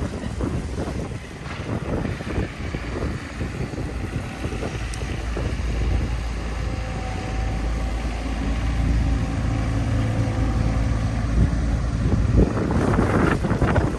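A large vehicle's engine running close by, a low steady sound with a faint whine that builds from about six seconds in and drops away near the end. Wind buffets the microphone at the start and end.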